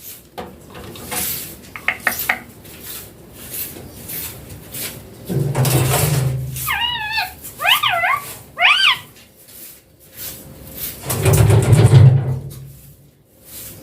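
Pet parrot giving a short run of four warbling, pitch-wavering calls in the middle, among scattered clicks and clatter, with two louder rushes of noise.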